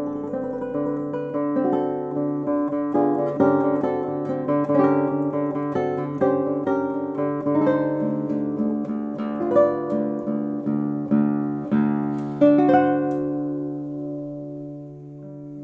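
Martinez MC-58 classical guitar with a solid top and rosewood back and sides, played solo fingerstyle: rapid repeated treble notes over a sustained bass line. Near the end the playing stops and a last chord rings out and fades.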